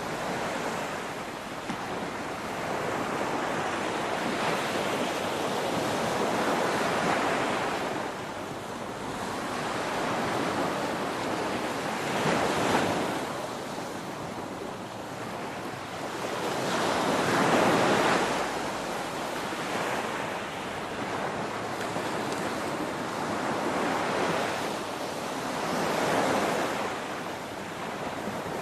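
Ocean waves crashing: a continuous rush of surf that swells and ebbs every several seconds, with the biggest wave surging about two-thirds of the way through.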